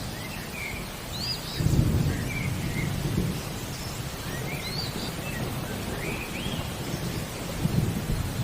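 Steady rain with a low rumble of thunder that swells about one and a half seconds in and again faintly near the end. Birds chirp short, quick calls over it throughout, about a dozen in all.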